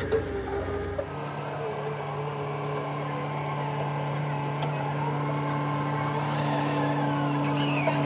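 A motor running steadily with a constant low hum; the sound changes abruptly about a second in.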